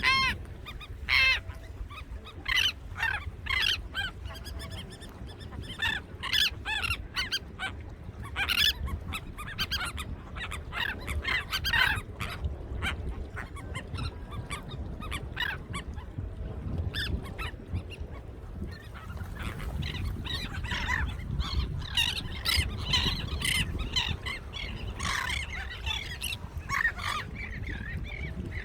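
A large flock of birds calling, many short overlapping nasal calls one after another, with a steady low rumble underneath.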